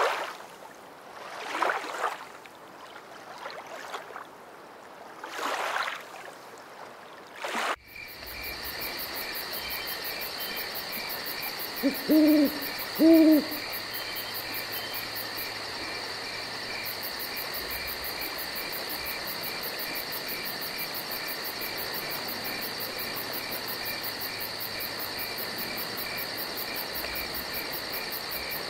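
Gusty rushing of wind and water at the lakeshore. After a sudden cut it changes to a steady, high, pulsing chirring of insects, with two loud, low, owl-like hoots about a second apart near the middle.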